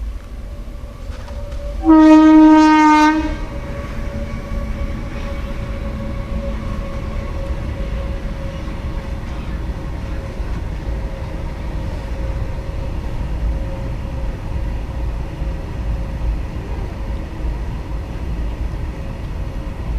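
A locomotive horn gives one loud blast of a little over a second, about two seconds in. It is followed by the steady rumble of a train running past, with a faint constant tone riding on it.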